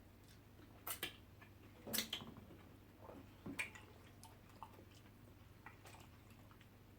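Faint wet eating sounds: banku and vegetable soup being chewed, with a few short smacking clicks, loudest about two seconds in, over a low steady hum.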